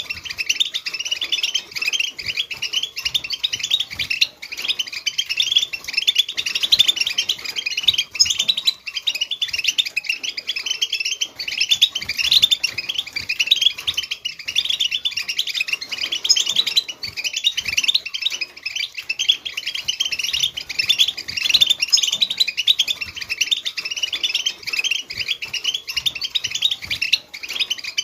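Several European goldfinches singing together: a dense, continuous twittering of many overlapping fast chirps and trills.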